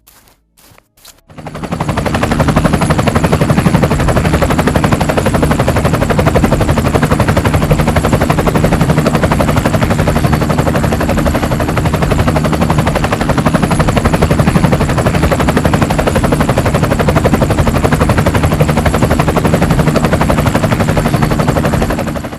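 Helicopter sound effect: a fast, steady rotor chop with a low hum and a faint high turbine whine. It starts about a second and a half in, runs evenly and loudly, then fades out near the end.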